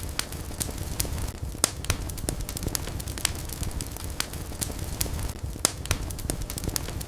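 Wood fire burning in a fireplace, with a low steady rumble and frequent sharp, irregular crackles and pops, a few louder than the rest.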